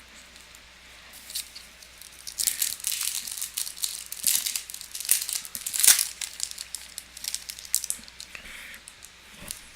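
A foil trading-card pack wrapper being torn open and crinkled: a run of sharp crackles and rustles starting about a second in, loudest around six seconds in, dying down near the end.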